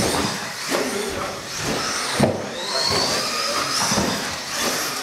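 Radio-controlled race trucks running laps, their motors whining high and rising and falling in pitch as they accelerate and brake, over the rattle of tyres and chassis on the track. A sharp knock a little over two seconds in.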